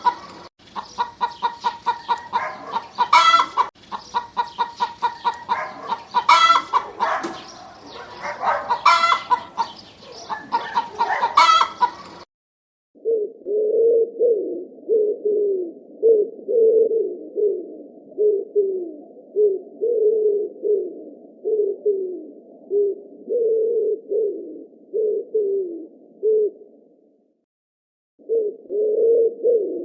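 Chickens clucking with a rooster crowing several times for the first twelve seconds or so. After an abrupt cut comes a different recording of short, low calls repeated over and over, each falling in pitch.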